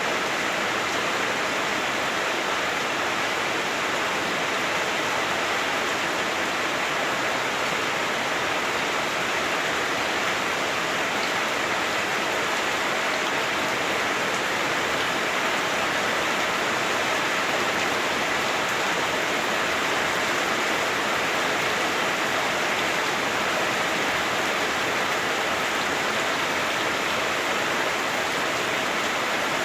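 Heavy rain drumming steadily on a house roof, heard from indoors as an even, dense hiss.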